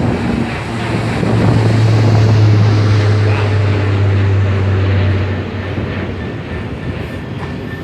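Turboprop airliner climbing away just after takeoff: a steady low propeller drone swells for a few seconds, then fades about five seconds in.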